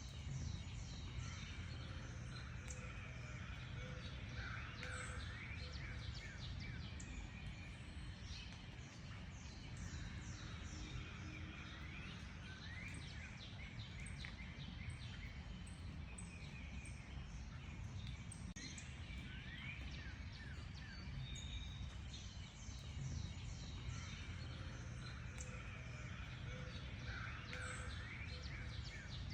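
Many birds chirping and singing together, a dense chorus of quick high chirps and trills over a steady low background rumble.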